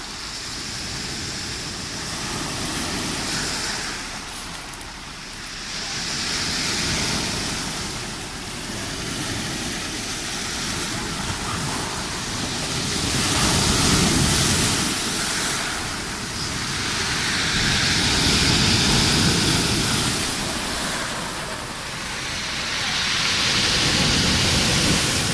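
Rough sea: waves surging and breaking, the rush of water swelling and fading in long surges every five seconds or so.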